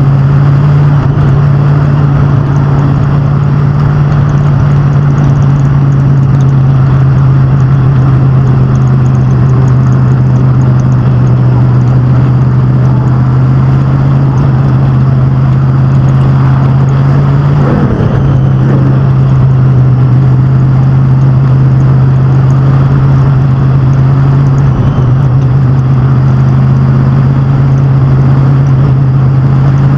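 Street stock cars and pro trucks running laps on an oval track: a loud, steady drone of racing engines, with a brief change in pitch a little over halfway through.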